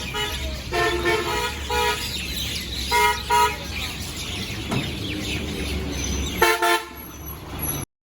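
Vehicle horns honking in short beeps, five or so times, over a steady low rumble of road traffic, with faint bird chirps in the background. The sound cuts off suddenly near the end.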